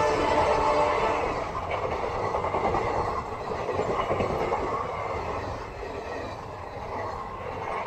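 Passenger coaches of an express train rushing past at speed: a steady rush of wheel and wind noise with clickety-clack over the rail joints, slowly fading. A horn note that was sounding ends in the first moment.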